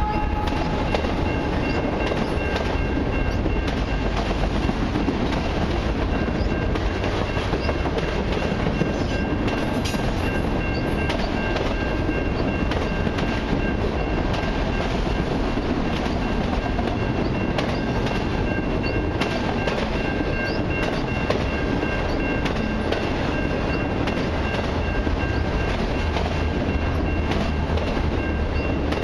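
Long string of autorack freight cars rolling past at track speed: a steady rumble with the clatter of wheels over the rails, and a faint, steady high-pitched ringing tone throughout.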